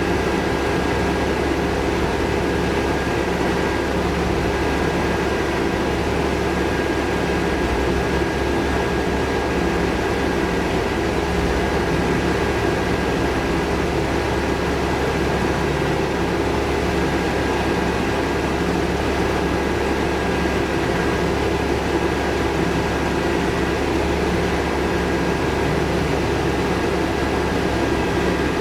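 Steady mechanical drone with a thin, high, unchanging whine over it, running evenly throughout without any rise or fall.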